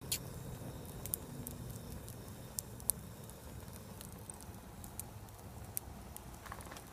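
Wood fire burning in a fire pit, crackling with sharp, irregular pops and snaps over a low, steady rush.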